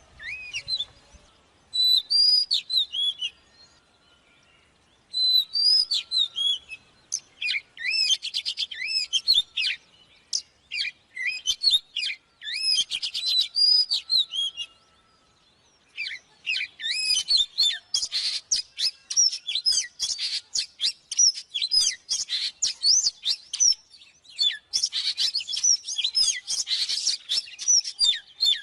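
Oriental magpie-robin singing: varied whistled phrases that slide up and down, mixed with fast clicking notes. The song comes in bursts and falls silent twice for about a second, around four seconds and fifteen seconds in.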